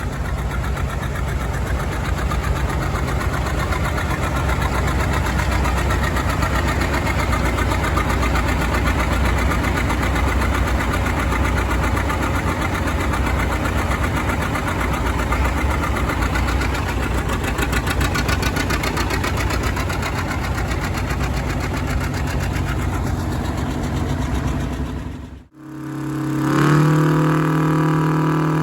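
An engine running steadily with a fast, even beat for most of the clip. After a sudden break near the end, a steady droning tone takes over and steps up slightly in pitch.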